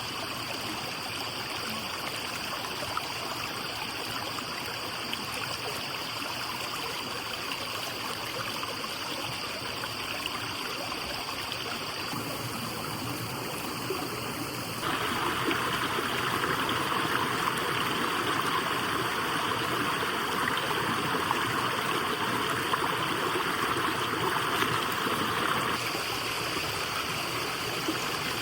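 Flowing water, like a stream, making a steady rushing noise that abruptly gets louder about halfway through and eases a little near the end, with a faint steady high tone throughout.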